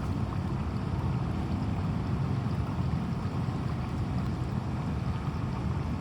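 Steady rushing noise of storm rain and floodwater, with a heavy low rumble.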